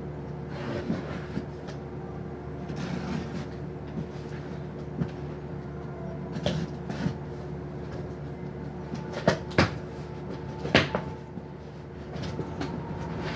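Belongings being handled and set down: scattered clicks and rustles, then two sharp knocks, about a second apart, a little past the middle of the clip. A steady hum runs underneath.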